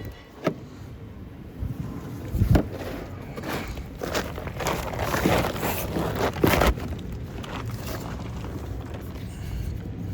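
Handling noise: a few sharp knocks and a stretch of scraping and rustling, loudest in the middle, as someone shifts about and handles tools or parts.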